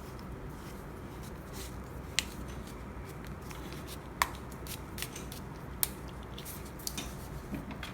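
Scattered small clicks and taps of hands handling an electrical power cord and its fittings, a few sharp ticks a second or two apart over steady low room noise.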